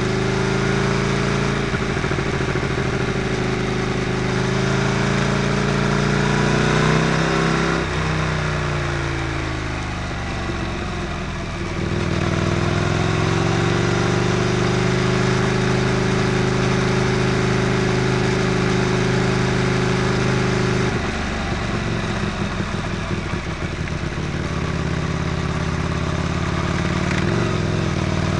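Motorcycle engine and exhaust running at a steady cruise over wind and road rush. The engine note falls as the throttle is rolled off about eight seconds in, picks back up around twelve seconds, and dips again a little past twenty seconds before rising near the end.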